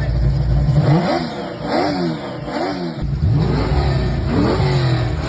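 Car engine being revved in a series of short blips over a steady rumble, the pitch climbing and dropping several times in quick succession.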